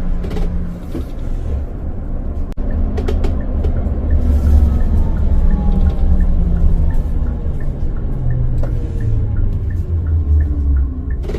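Hyundai Universe Prime CNG bus engine running as the bus drives, its pitch falling and rising again with road speed. From about three seconds in there is a light ticking about twice a second.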